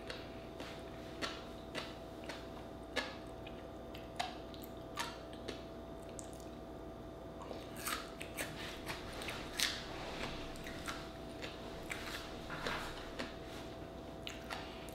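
Close-miked wet chewing of raw oyster topped with fish roe: scattered soft clicks and small pops from the mouth, busier in the second half, over a faint steady hum.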